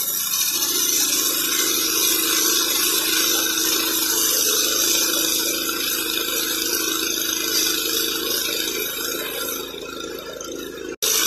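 Steady, loud hissing rush of rail cutting or heating equipment, with a low hum underneath; it drops out abruptly for a moment near the end.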